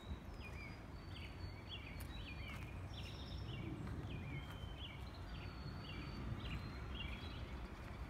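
Several songbirds chirping and singing in woodland, with many short, repeated high notes overlapping one another, over a steady low rumble.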